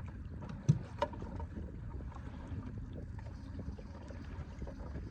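Low wind and water noise around a small inflatable boat at anchor, with a sharp knock about two-thirds of a second in and a softer one shortly after.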